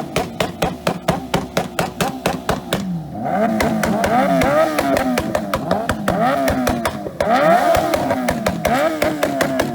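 Motorcycle engines revved hard over and over, the pitch rising and falling about twice a second as they bounce off the rev limiter, with rapid sharp crackles throughout.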